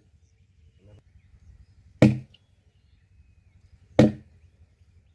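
Two heavy chopping strokes with a blade, about two seconds apart, each a sharp knock with a short low thud.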